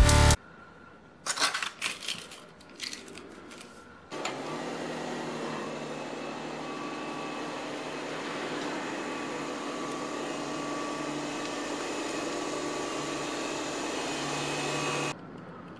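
Rolls-Royce Phantom's V12 engine starting about four seconds in and running at a steady idle as the car reverses slowly out of a garage, after a few clicks and knocks. The sound cuts off suddenly near the end.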